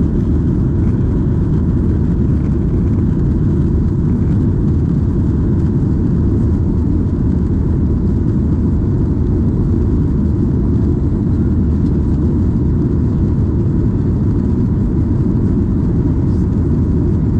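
Steady cabin noise inside a Boeing 737-800 airliner: an even, unchanging low rumble of engines and air, with a faint steady tone above it.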